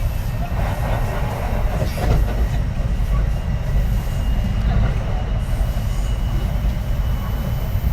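Kintetsu 3220 series electric train running, heard from inside the car: a steady low rumble of wheels on rail. A faint thin high tone runs through the second half.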